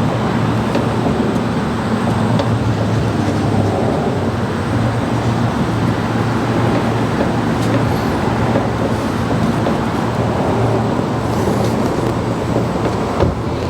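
Steady low mechanical drone of a motor running nearby, with a few faint clicks.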